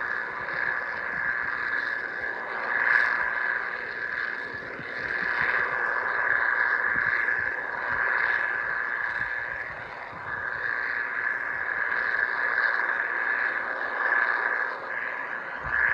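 Combine harvester working in the field: a steady mechanical hum with a high whine on top that swells and fades every few seconds.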